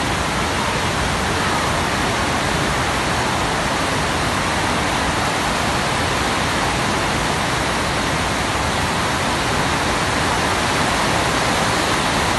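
Heavy tropical downpour: a loud, steady, unbroken hiss of pouring rain.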